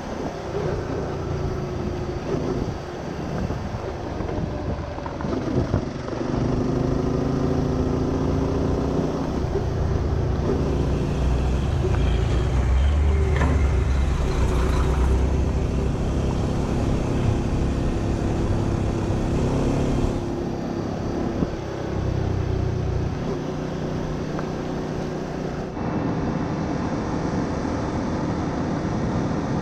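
Honda Winner 150's single-cylinder engine running while riding, with wind and road noise. The engine note rises and falls with speed, and the sound changes abruptly a few times.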